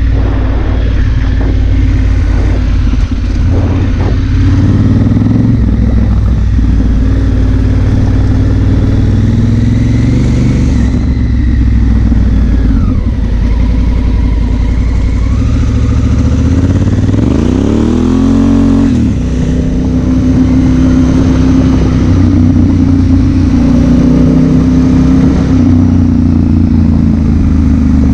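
Honda Africa Twin CRF1000L's parallel-twin engine running under way as the bike is ridden, with a rising rev about two-thirds of the way through.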